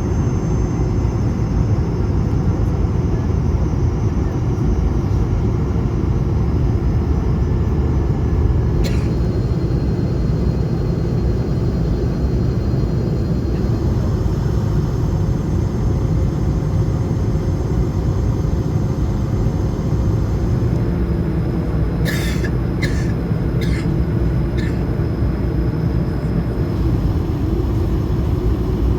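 Cabin noise inside an Airbus A220-300 in flight: a steady low rumble of its Pratt & Whitney PW1500G engines and airflow. A single short click comes about nine seconds in, and a few more short clicks come a little over twenty seconds in.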